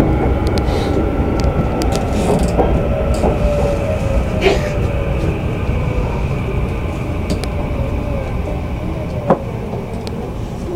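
JR East E235 series electric train running, heard from inside the car: a steady low rumble of wheels and rails with scattered clicks. Several tones fall slowly in pitch as the train slows for its stop.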